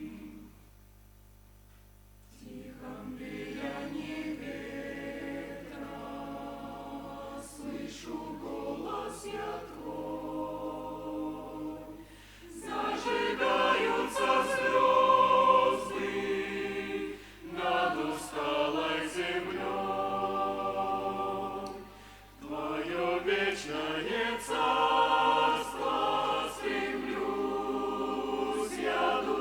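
Church choir singing a hymn, apparently a cappella. The choir breaks off briefly after the first half-second, resumes about two and a half seconds in, and sings in phrases with short breaths between them, loudest in the middle.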